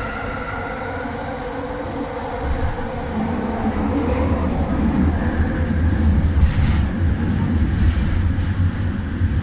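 Kelana Jaya Line LRT train running, with a steady whining tone at first and a low rumble that grows louder from about three seconds in.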